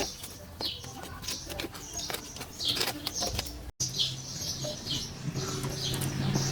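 Small birds chirping in short repeated calls, with scattered light clicks; a low steady hum comes in about halfway through.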